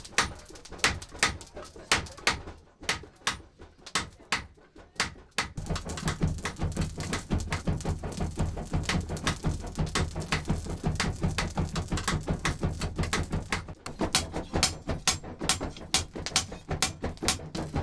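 Hand percussion: sharp, evenly spaced strikes about two or three a second for the first five seconds, then from about six seconds a denser, faster djembé rhythm with a deep drum underneath.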